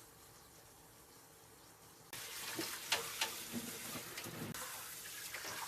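Low room tone for about two seconds, then running water starts suddenly and splashes over the air conditioner's plastic casing and panels as they are rinsed, with a few knocks of the plastic being handled.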